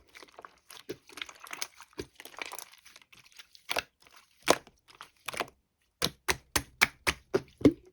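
Slime being pressed and worked by hand: a crinkly crackling stretch, then a quick run of sharp pops and clicks near the end.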